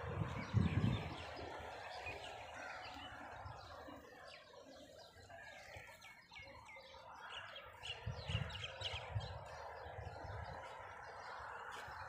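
Small birds chirping and twittering in many short, scattered calls, with low muffled rumbles about a second in and again around eight seconds.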